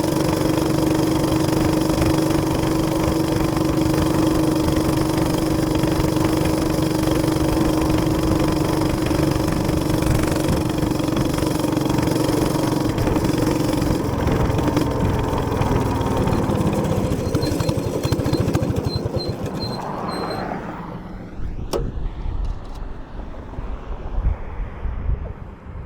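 Minibike's small gas engine running steadily, then its pitch sinks over several seconds and it cuts out about twenty seconds in. Afterwards there is only a low rumble with a few knocks.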